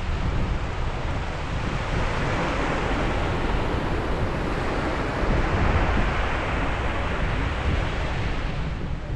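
Ocean surf washing onto a beach in a continuous rush, swelling a little about halfway through, with wind buffeting the microphone.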